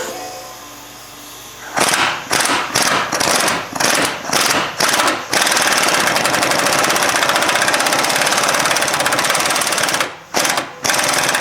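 Pneumatic impact wrench driving a bolt through a long stack of socket extensions. It runs in about eight short bursts, then a long unbroken run of about five seconds, then stops and gives two more short bursts near the end.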